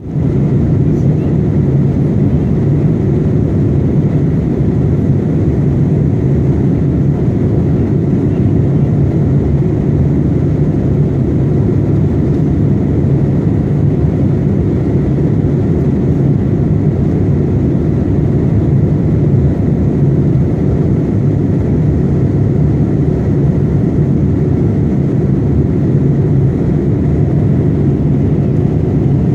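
Passenger aircraft cabin noise in flight: a steady, loud, low-pitched drone of engines and airflow, unchanging throughout.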